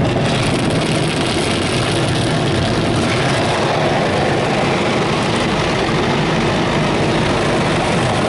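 Rotating car-wash brushes and water spray working over a car, a steady loud rushing and swishing heard from inside the cabin.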